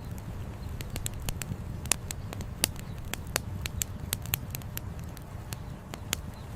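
Campfire wood crackling, with frequent irregular sharp pops, a few louder than the rest, over the steady low rush of a flowing river.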